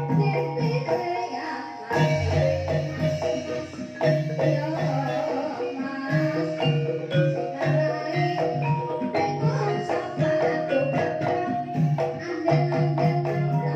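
Banyumasan gamelan ensemble playing a gending in ebeg style: mallet-struck tuned percussion in quick strokes over a repeating low note.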